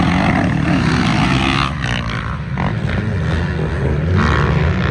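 Off-road racing motorcycle engines revving hard as they race, the pitch rising and falling with the throttle and easing off briefly about two seconds in.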